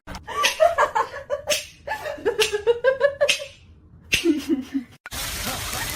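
A person laughing in quick repeated bursts for about three seconds, then a shorter laugh a little after four seconds. About five seconds in it cuts to a steady rushing noise.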